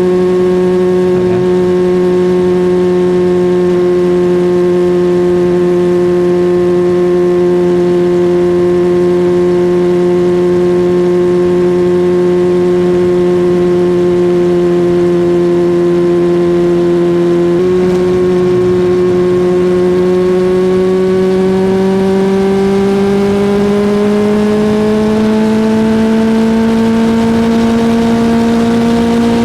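Suzuki GSX-R1000 inline-four engine running at a steady pitch while riding; after about 18 seconds the pitch climbs slowly over several seconds as the bike gathers speed, then holds at the higher note.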